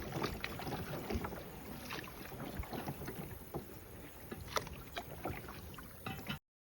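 Water splashing and trickling around a kayak on a small river, with scattered small drips and knocks at irregular times. The sound cuts off suddenly about six seconds in.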